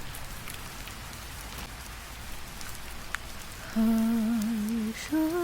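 Steady rain sound effect: an even patter with scattered drip ticks. About four seconds in, a woman's voice starts singing a lullaby in slow held notes with vibrato, breaking briefly and stepping up in pitch near the end.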